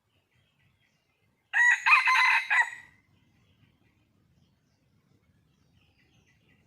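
A junglefowl (wild chicken) gives one loud call about a second and a half long, in several short linked pieces, starting about a second and a half in; it is a call made to attract a mate.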